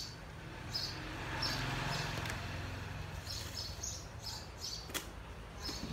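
Small birds chirping repeatedly in short high calls over a low steady hum, with one sharp click about five seconds in.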